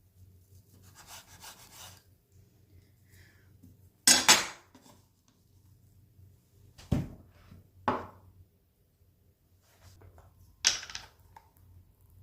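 Kitchen handling sounds: a handful of separate clatters and knocks of dishes and utensils being picked up and set down, the loudest about four seconds in, one with a dull thud, and a soft rub or rustle before them.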